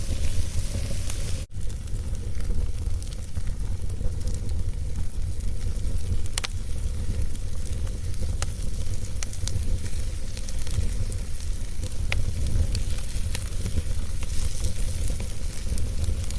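Wood fire burning in a fireplace: a steady low rumble and hiss of the flames with scattered sharp crackles and pops. The sound drops out for a moment about a second and a half in.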